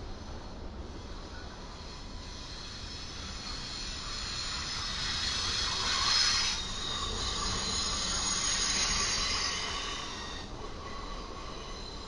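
Intermodal freight train rolling past, its wheels squealing in several high steady tones over the rumble of the cars. The squeal builds to its loudest about six seconds in and fades away by about ten seconds.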